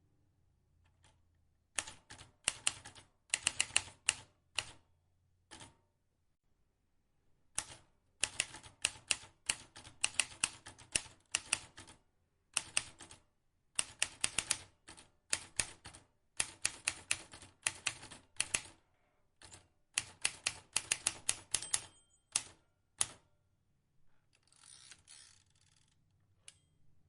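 Vintage manual typewriter keys struck in quick runs of clicks, broken by short pauses. Near the end comes a brief rasping, scraping noise.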